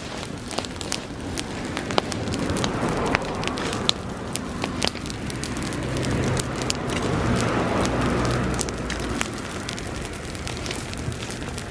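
Bonfire of dry summer grass burning, crackling with many sharp pops. The rush of the flames swells twice, loudest about two-thirds of the way through.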